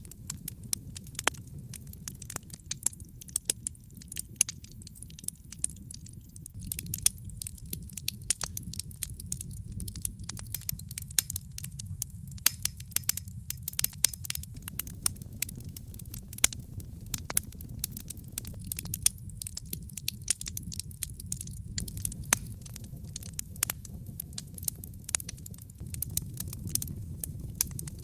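Wood fire burning in a fireplace: a dense, irregular crackle of sharp pops and snaps over a steady low rumble.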